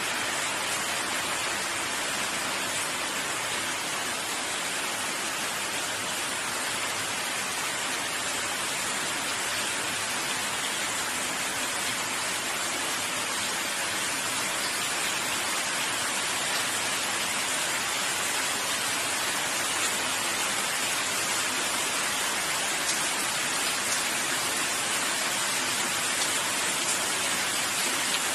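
Steady rain falling, an even hiss with faint patter of drops and no let-up.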